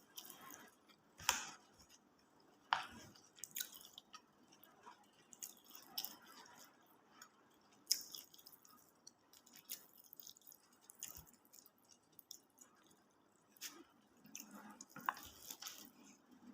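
Close-up chewing of a rice meal: faint, irregular wet mouth clicks and smacks at uneven intervals.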